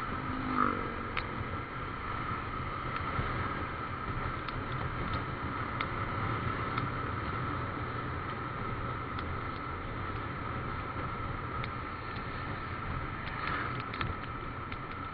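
Motorcycle on the move: steady engine and road-and-wind noise with a constant mid-pitched drone, and scattered faint ticks throughout.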